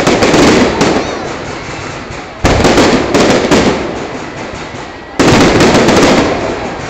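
Fireworks display: three volleys of loud bangs, one at the start, one about two and a half seconds in and one about five seconds in. Each is followed by dense crackling that fades over a couple of seconds.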